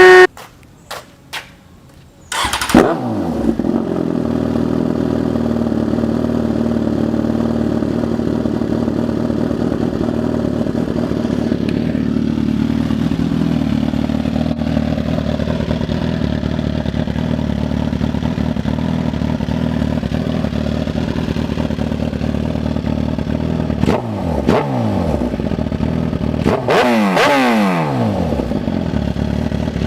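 A few soft clicks, then a Suzuki GSX-R1000's inline-four engine starts about two and a half seconds in and settles into a steady idle through its exhaust. Near the end the throttle is blipped a few times, the engine revving up and falling back.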